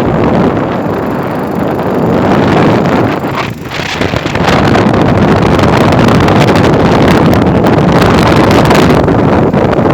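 Wind buffeting the microphone on a moving motorbike, a loud steady rush mixed with the bike's running noise. It drops briefly a little over three seconds in, then comes back louder and steadier.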